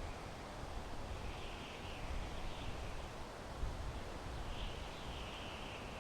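Wind blowing through pine trees: a steady rushing hiss with an uneven low rumble underneath. Two faint, high, wavering sounds come through it, about a second in and again near the end.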